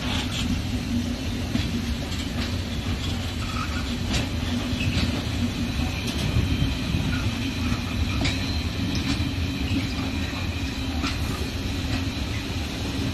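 Freight wagons rolling past close by: a steady rumble of steel wheels on the rails, with irregular clicks over the rail joints and a faint high squeal from the wheels.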